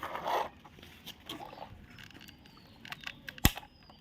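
Quiet handling sounds with a few small clicks and one sharp click about three and a half seconds in.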